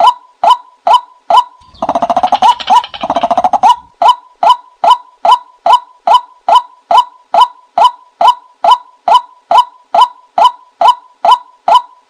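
A bird's call, the 'ไก่นา' named for decoy-luring, repeating short hooked notes at a very even pace of about two and a half a second. About two seconds in it breaks into a louder, faster run of rising notes for about two seconds, then returns to the even calls.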